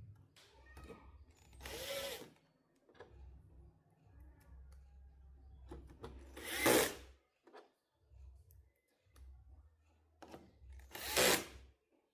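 Small handheld power tool running in short spurts, with three louder noisy bursts about half a second long, spaced four to five seconds apart.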